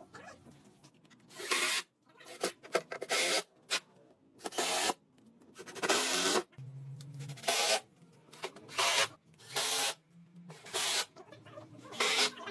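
Wood being scraped by hand in a series of short, irregular strokes, about one a second, like sanding or rasping a wooden board.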